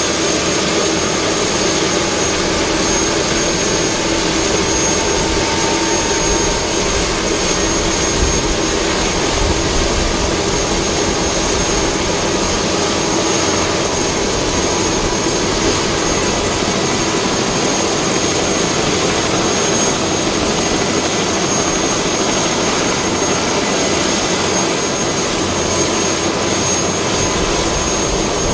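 Helicopter's turbine engine and rotor running steadily, a constant high turbine whine over dense, even engine noise.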